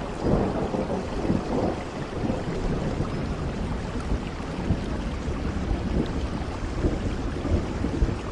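Steady rain with a low rumble of thunder in the first couple of seconds.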